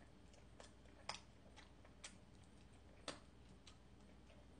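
Faint, sharp mouth clicks of someone chewing soft, chewy jeolpyeon rice cake, about one a second, over near silence.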